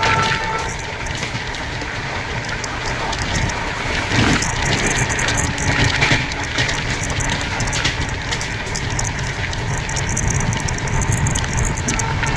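Express train's passenger coaches running at speed, heard from the doorway: a steady rumble of wheels on rails with many sharp clicks and rattles.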